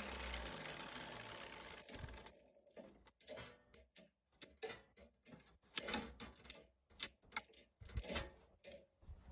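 A steady workshop power-tool noise fades out over the first two seconds, followed by irregular sharp clicks and light taps of sheet-metal parts being handled and fitted.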